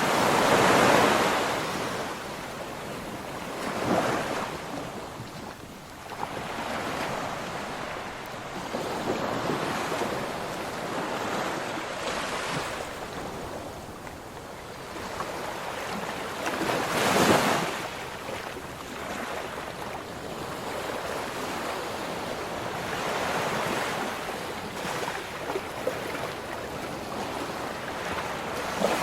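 Ocean waves breaking and washing on a shore in a steady rhythm. Each surge swells and fades, the loudest near the start and again a little past the middle.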